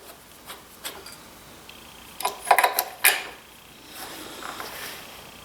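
Clicks and a short burst of metallic clatter, loudest in the middle, from parts and tools being handled while a cover is unscrewed and lifted off a DeWalt 735 planer.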